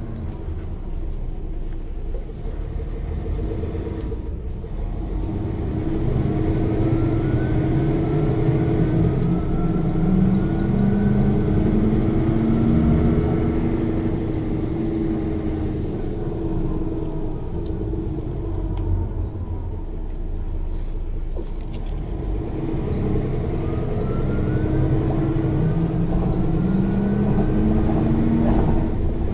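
Mercedes-Benz O 405 N1 city bus heard from inside the cabin: its horizontal six-cylinder diesel is loud and pulls up through the revs twice, easing off in between, with a thin whine from the rear-axle differential rising and falling with the road speed.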